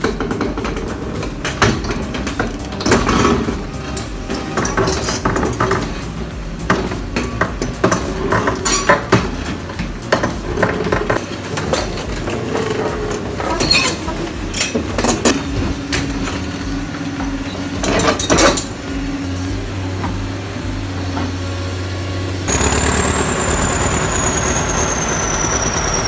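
Heavy machinery working, with frequent metallic clanks and knocks over a steady engine rumble. Near the end the sound changes to a louder engine run with a high whine that slowly falls in pitch.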